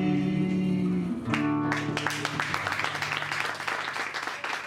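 A samba band ends a song: voices hold the last note, then the acoustic guitar (violão) and cavaquinho strike a final strummed chord about a second in that rings on. Audience clapping starts about two seconds in.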